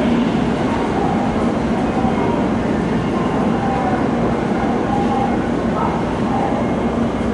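Shinkansen train at the station platform: a steady, loud rail rumble with a low, constant hum.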